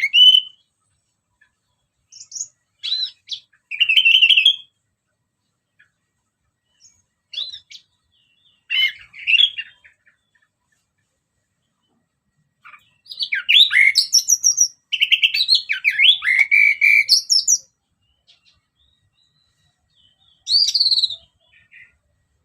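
Orange-headed thrush singing: short phrases of varied, quickly changing notes broken by pauses, with one longer, fuller run of song about halfway through.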